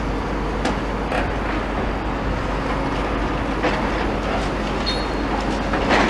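Demolition machinery working: a steady mechanical rumble with a few scattered knocks and clanks.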